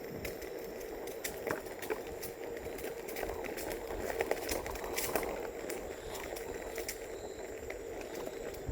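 Onewheel electric board rolling along a track: a steady whine from its hub motor, with scattered crackles and clicks from the tyre over the path surface and a low wind rumble on the microphone.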